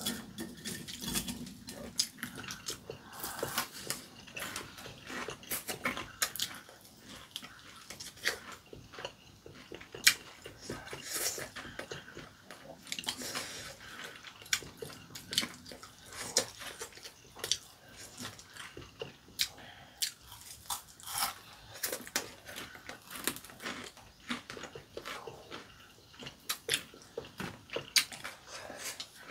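Biting and chewing, with crisp crunches from breaded, deep-fried pork cutlet; irregular sharp crunches and clicks throughout.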